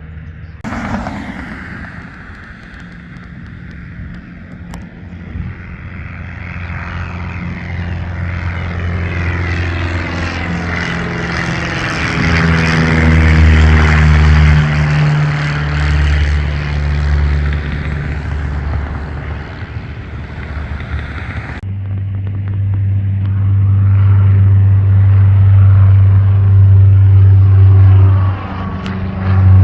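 Propeller airplane engine running at high power as the plane passes, growing louder to a peak and then easing off. About 22 seconds in there is an abrupt cut to another loud, steady propeller engine run.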